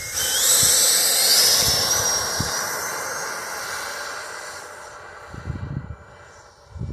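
Electric ducted fan of a Freewing T-33 80mm RC jet, driven by a 1920 in-runner motor, running at high throttle: a loud whooshing whine rising in pitch over the first two seconds, then fading away steadily as the jet takes off and flies off.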